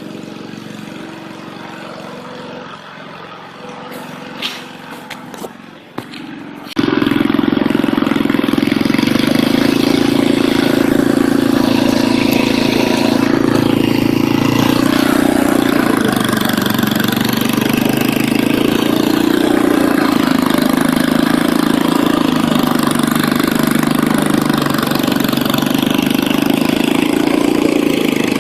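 Old 5 hp Ariens snowblower engine running. About seven seconds in it suddenly becomes much louder and then runs steadily at that level.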